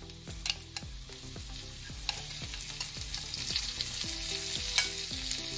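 Marinated chicken pieces sizzling in hot coconut oil in a pan as sliced ginger, green chilli and garlic are scraped off a plate into it; the sizzle grows a little louder about two seconds in, with a few light clicks of the spoon against the plate.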